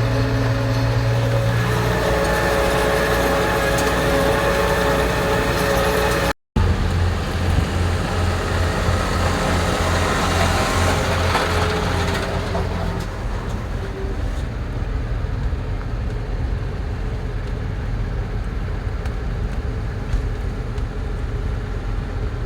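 Engine running steadily, cut off briefly about six seconds in and then running on with a low, even pulse.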